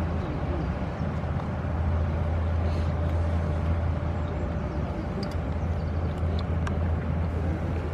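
Inland motor cargo barge's diesel engine running under way: a steady low drone with a faint higher hum above it.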